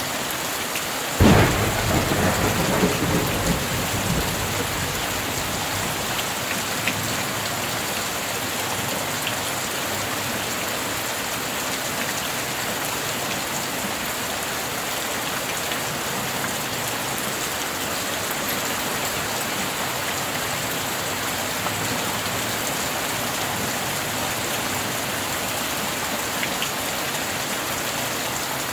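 Heavy, steady rain with a sudden clap of thunder about a second in, rumbling and dying away over the next few seconds.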